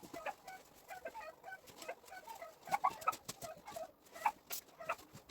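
Chickens clucking, many short calls overlapping, with a few sharp clicks or knocks among them.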